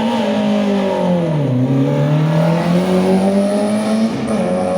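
Car engine revving hard: the pitch drops about a second and a half in, then climbs steadily as the car accelerates, easing off slightly near the end.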